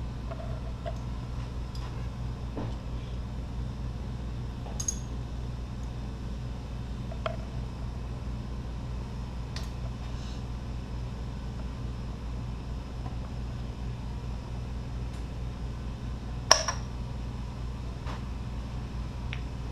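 Steady low hum with a few scattered light metallic clinks; the sharpest clink comes about three-quarters of the way through.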